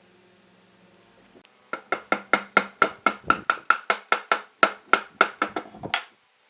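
Rapid, evenly paced hammering on wood, about five sharp blows a second for some four seconds, then stopping.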